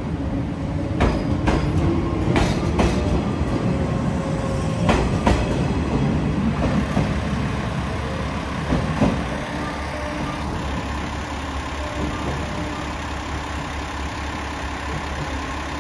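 381-series limited express train pulling out, its wheels clacking over rail joints as the cars pass, then the sound drops after about ten seconds to a steady low rumble as the train draws away.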